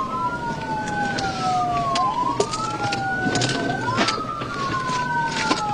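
Police car siren on a wail setting, with two overlapping wails out of step: each rises quickly, then falls slowly, repeating about every three and a half seconds. Scattered short clicks sound over it.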